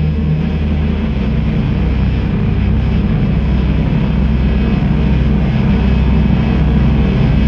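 Engine running steadily, a low, even drone whose pitch shifts slightly about a second in; the engine has a misfire.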